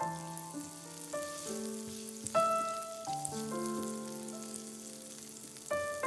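Garlic cloves and butter frying in oil in a pan, sizzling under background music of slow, held keyboard notes.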